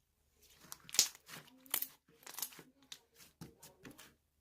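Slime being squeezed and worked by hand, giving an irregular run of crinkling crackles and sharp pops, the loudest about a second in.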